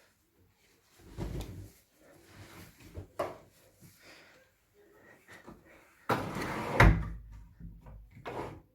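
Scattered knocks and rubbing from something being handled, then a louder clunk with a sharp click about seven seconds in, like a door or lid being opened or shut by hand.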